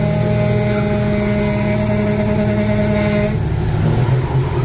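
Truck engine running steadily on the road, with a steady pitched tone laid over it that stops about three seconds in.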